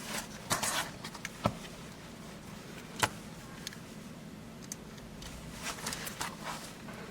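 Hands handling the compass's lamp wires and a 12-volt power supply: a few light clicks and rustles, the sharpest about three seconds in and a brief cluster near the end, over a low steady hum.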